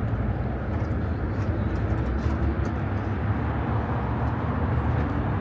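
Car engines idling, a steady low engine sound with a haze of background noise.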